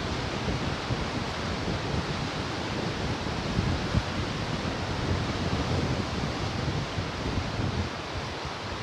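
Ocean surf washing steadily on the shore, with wind buffeting the microphone in low, uneven gusts.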